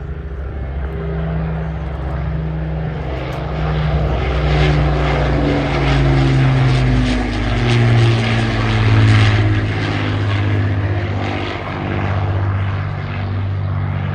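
Rolls-Royce Merlin piston engines of a propeller warbird flying past, a deep multi-toned drone whose pitch falls as it passes, loudest about nine seconds in.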